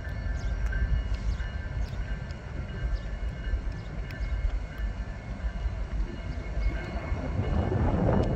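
BNSF freight train, an empty coal train, rolling by: a continuous low rumble of the train on the rails, with faint steady high-pitched tones over it. The sound grows louder near the end.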